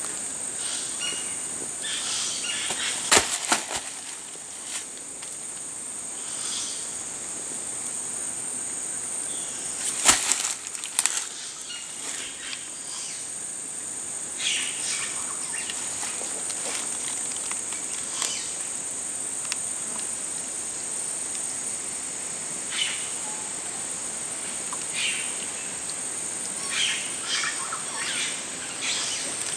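Steady high-pitched drone of rainforest insects, with scattered rustles and clicks and two sharp knocks, about three and ten seconds in.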